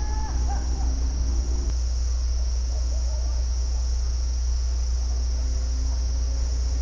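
Steady high-pitched insect chorus over a constant low rumble, with a few short bird chirps in the first second.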